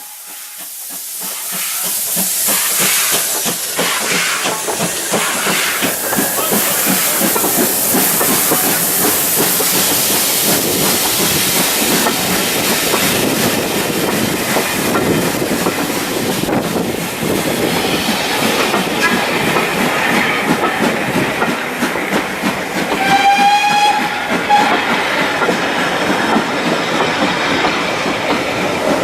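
A steam-hauled train running past on the rails, its wheels clicking over the rail joints, building up over the first couple of seconds and then running steadily. The locomotive's steam whistle gives a short blast about three-quarters of the way through.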